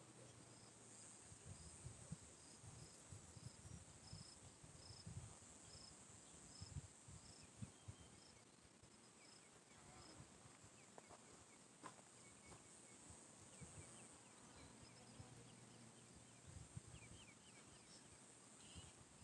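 Faint early-morning outdoor ambience: a steady high insect drone, with a short high note repeating about twice a second for the first several seconds and a few faint chirps later on. Soft low thumps sit underneath.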